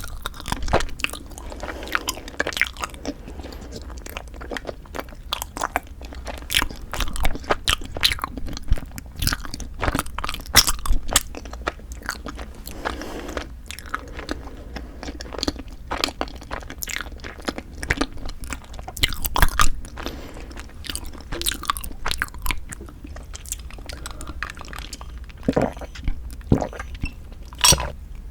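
Close-miked eating: biting and chewing cream cheese and ice-cream rice cake, with many sharp crunches and sticky mouth clicks at an uneven pace, a few bites louder than the rest.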